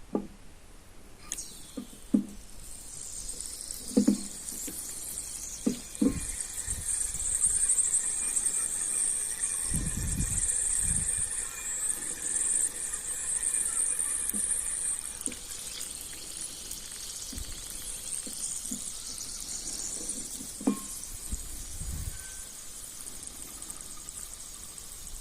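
Soaked wet chalk being bitten and crunched close to the microphone, with a few sharp crunches. A steady high hiss runs through the first half and fades about two thirds of the way in.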